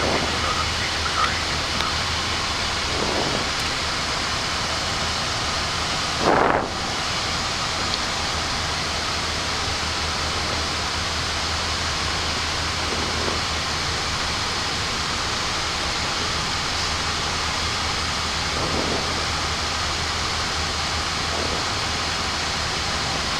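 Steady rushing flight-deck noise of a Boeing 737-800 in the climb: air streaming past the cockpit with a low, even hum underneath. About six seconds in there is one short, louder burst of noise.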